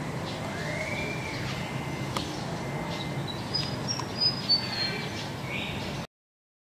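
Birds calling and chirping over a steady low background rumble: an arched call about a second in, then a run of short high chirps stepping down in pitch, loudest about four and a half seconds in. The sound cuts off abruptly about six seconds in.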